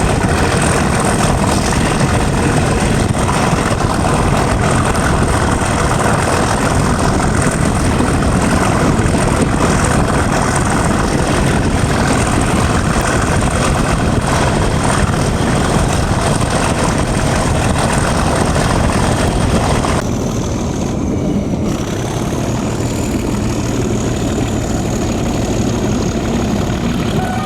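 Class 37 diesel locomotive's English Electric V12 engine running steadily, heard from the train behind it. About two-thirds of the way through the sound changes: the higher sounds drop away, the level dips a little, and a faint high whistling tone comes in.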